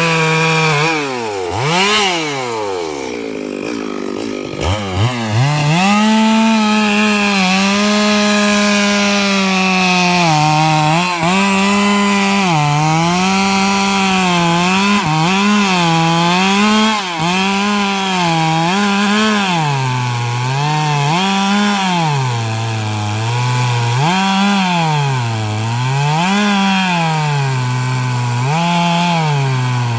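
Stihl MS 382 two-stroke chainsaw ripping eucalyptus logs for firewood. The engine drops back about a second in, revs up again near four and a half seconds, then runs under cutting load with its pitch repeatedly sagging and rising as the chain bites into the wood.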